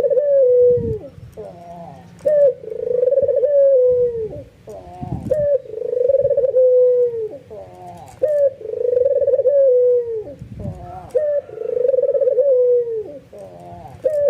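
White albino puter (domestic ringed turtle dove) giving its repeated bowing coo, about one call every three seconds: a short clipped note, then a long coo that slides down at the end. A few low thuds fall between the calls.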